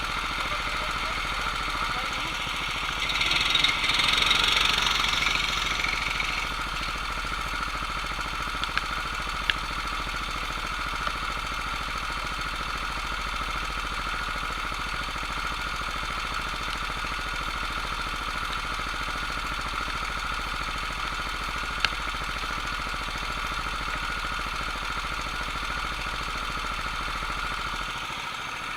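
Kart engines running with a steady hum that hardly changes, a louder hissing swell a few seconds in, and a few sharp clicks.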